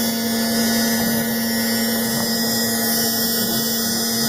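ShopBot PRS CNC router running a dry run with no cutting: the Columbo spindle spins its tool in a steady hum with fainter high whines, while the gantry makes short travel moves. The machine is described as super quiet.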